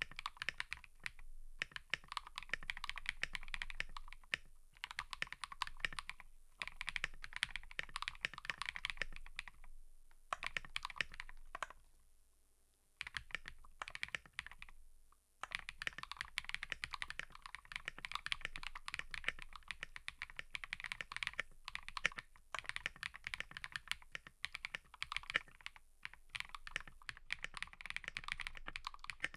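Typing on a mechanical keyboard: fast, continuous key clicks and clacks, with short pauses about ten and thirteen seconds in.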